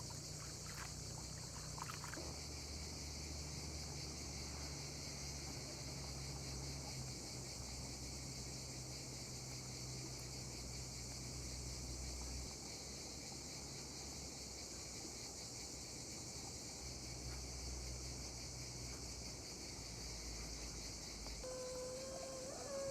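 Steady outdoor background ambience: an even high hiss with a low hum beneath it, and a short pitched tone near the end.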